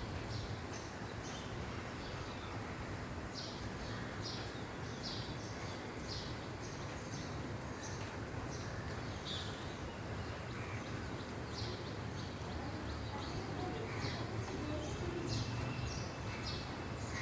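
Birds chirping: many short, high calls repeating irregularly over a steady background noise with a low hum.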